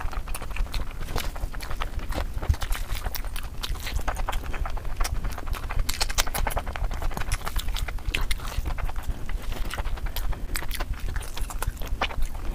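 Close-miked mouth sounds of a person eating chicken biryani by hand: chewing and lip-smacking, heard as many quick, irregular clicks and smacks.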